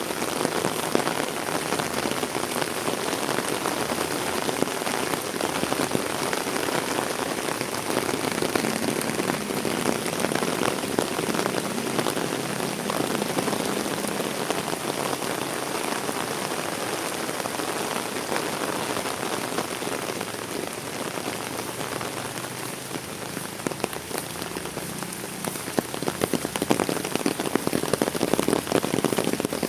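Heavy rain falling steadily: a dense patter of drops on surfaces, with the patter growing sharper and louder near the end.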